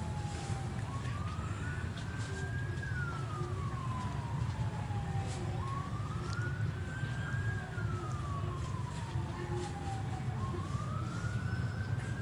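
A slow wailing siren, its single tone rising and falling about once every five seconds, over a steady low rumble.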